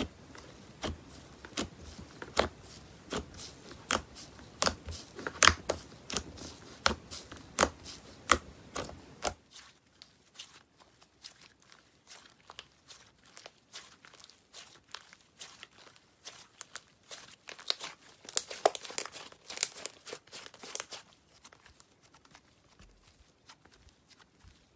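Slime being worked by hand, giving a run of crisp crackling clicks and pops. About nine seconds in the background hush drops away and the crackles turn sparser, with a denser burst of them a few seconds before the end.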